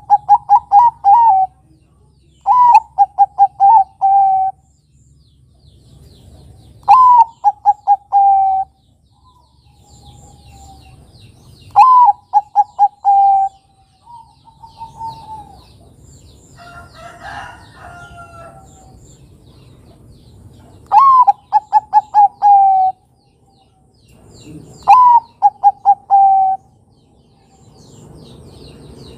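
Zebra doves (Bangkok-strain perkutut) singing: six loud phrases, each a rising opening note followed by a quick run of short coos, a few seconds apart. Faint high chirps of small birds sound in the gaps.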